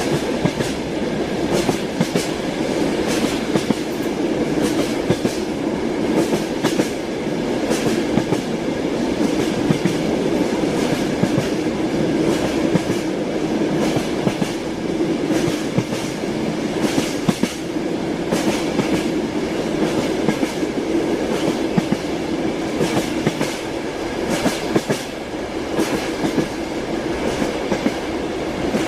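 Moving train's wheels clacking over the rail joints, a steady rumble run through with many quick, uneven clicks.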